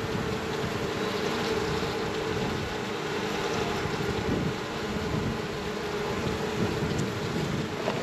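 Many honeybees buzzing around exposed comb in a steady droning hum, with wind noise on the microphone.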